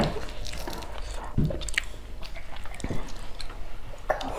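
Close-miked eating sounds from a lapel microphone: wet mouth clicks and chewing, then a bite of stir-fried green beans and rice near the end.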